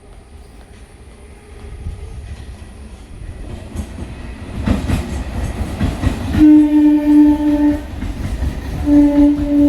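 An approaching electric train, its rumble and wheel clatter growing steadily louder, sounds its horn twice: a held blast about six and a half seconds in, and a second starting near the end.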